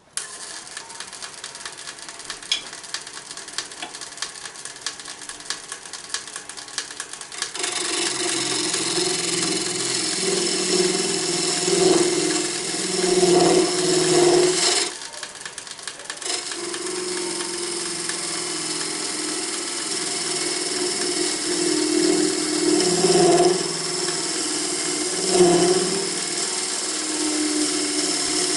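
Wood lathe running while a turning tool cuts into the spinning wood to hollow out a box. At first there is light, ticking tool contact; from about seven seconds in a louder, steady cutting noise takes over, which stops briefly about halfway and then resumes.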